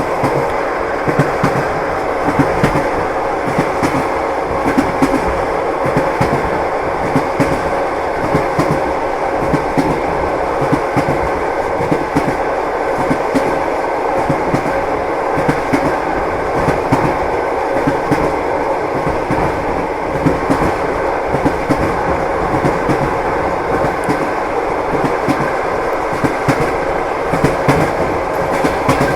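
Train wheels clattering on the rails: a steady rolling rumble broken by frequent short knocks, with a faint steady hum underneath.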